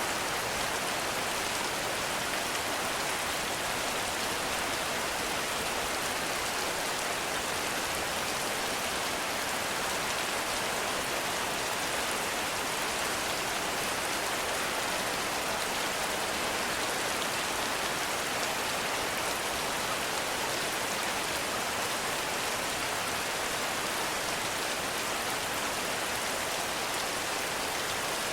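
Heavy rain falling steadily through forest, an even hiss of drops with no breaks or thunder.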